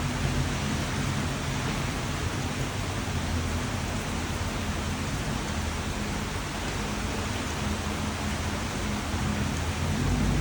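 Steady rain falling, an even hiss. A low rumble of thunder underneath fades in the first second and swells again near the end.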